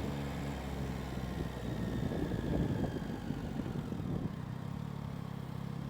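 Motorcycle slowing to a stop, its wind and road rumble on a helmet-mounted mic easing off. From about four seconds in, the engine idles steadily.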